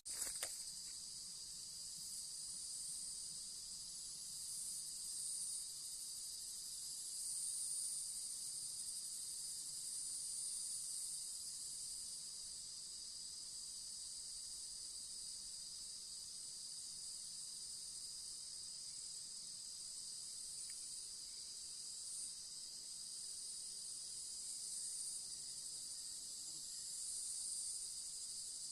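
Steady, high-pitched chorus of forest insects, swelling and easing every few seconds. A brief click at the very start.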